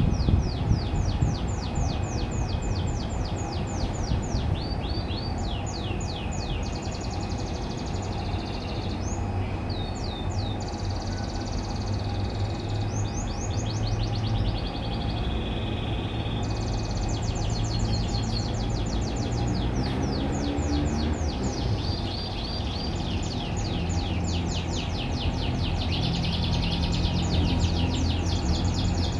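Domestic canary singing long rapid trills, each a fast run of repeated sweeping high notes, changing from phrase to phrase with short breaks between, over a steady low background rumble.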